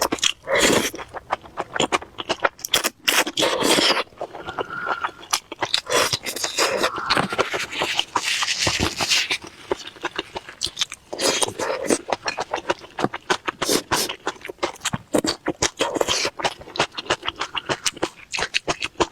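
Close-miked eating: wet chewing with many quick mouth clicks, from dumplings in chili sauce and cold-skin noodles being eaten.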